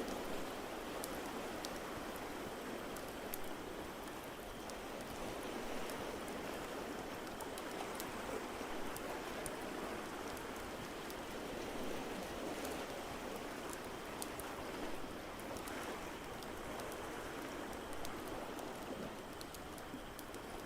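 Steady wash of ocean waves with gentle swells, and a wood fire in a fireplace crackling with sparse, sharp pops over it.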